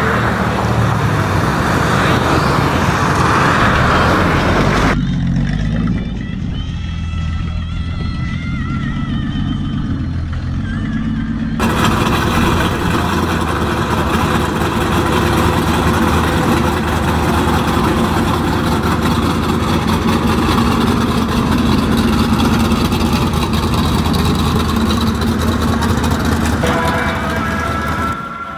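Engines of gasser hot rods running loudly as the cars drive past, in several short clips cut together. Music starts to come in near the end.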